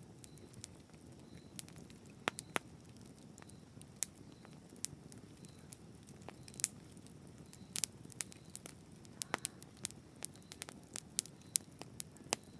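Wood campfire crackling: sharp, irregular pops and snaps over a low steady hiss of burning, the pops coming more often in the second half.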